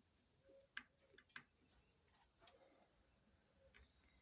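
Near silence, with a few faint, sharp clicks in the first half.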